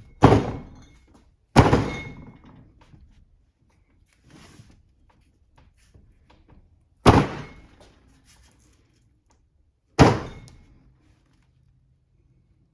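Four sharp hammer blows, each with a short metallic ring, knocking at the pinion seal in a Toyota 8-inch differential housing to drive it out. The first two come close together; the next two are spaced a few seconds apart.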